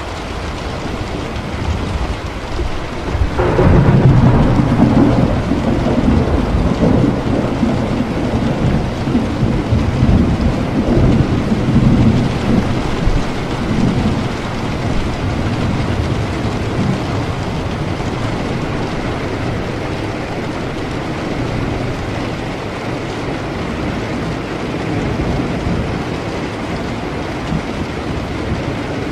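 Steady rain falling, with a sudden clap of thunder about three seconds in that rolls on as a low, pulsing rumble for about ten seconds before fading back into the rain.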